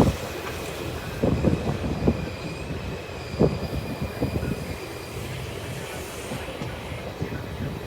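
Train moving on the tracks: irregular clanks and knocks from the wheels and wagons, with a high steady wheel squeal that fades out about five seconds in.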